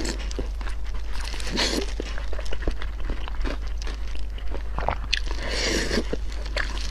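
Close-miked eating: braised pork belly bitten and chewed, with wet chewing and lip smacks and many short mouth clicks.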